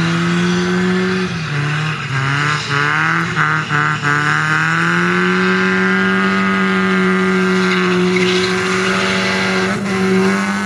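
A car engine revved hard and held at a high, steady pitch, dipping briefly about a second in and climbing back up over the next few seconds, with tyre noise underneath.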